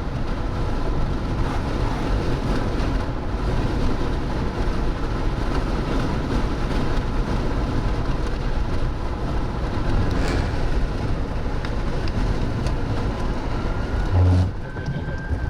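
Steady road and engine rumble heard from inside a moving car. Near the end comes a short low buzz, followed by a tone that rises and then glides down.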